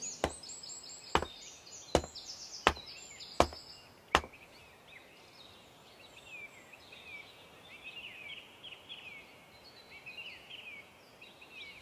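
Six sharp knocks, evenly spaced about three-quarters of a second apart, over the first four seconds, with small birds chirping throughout, busiest in the second half.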